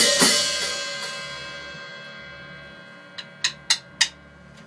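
A cymbal struck four times in about a second, then left ringing and slowly fading. Near the end, four sharp clicks about a quarter of a second apart.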